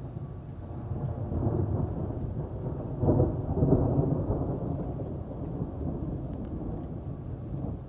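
Rolling thunder: a low rumble that swells, is loudest about three seconds in, then dies away slowly. Rain falls steadily underneath.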